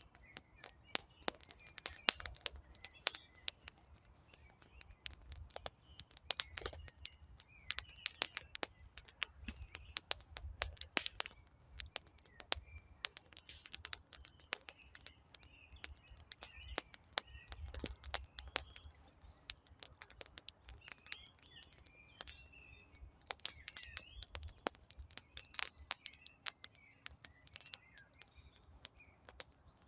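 Wood campfire crackling, with many sharp pops and snaps, over a low rumble. Small birds chirp and twitter in the background throughout.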